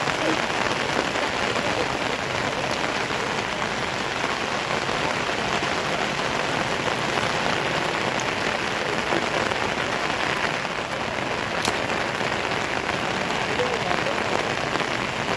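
Steady rain falling, an even hiss of drops on surfaces, with a single sharp click near the end.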